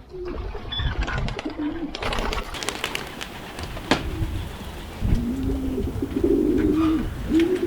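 Racing pigeons cooing in a loft: low, rolling coos that repeat and grow louder and more continuous in the second half, with scattered sharp clicks and rustles in the first half.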